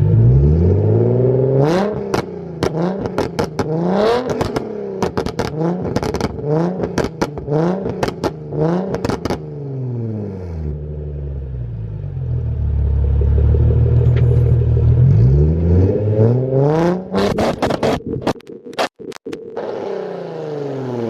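Nissan 350Z's V6 engine revved hard through a loud aftermarket exhaust again and again, the revs climbing and falling, with quick bursts of popping and crackling as the throttle is released.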